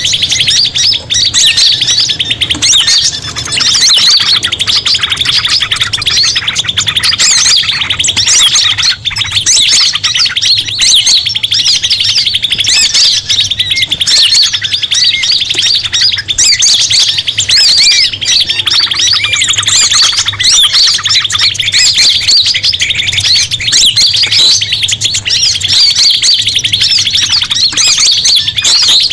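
A bird-lure recording of a noisy mixed flock of small forest birds, many chirping and calling at once in a dense, unbroken chatter. A faint low hum runs under it.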